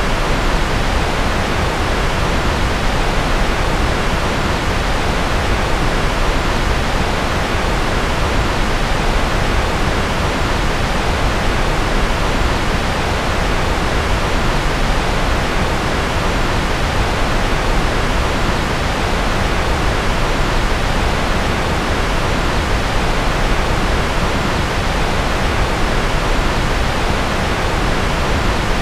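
Steady, unchanging electronically generated noise, a continuous even hiss with a full low end, closer to pink noise than pure white noise.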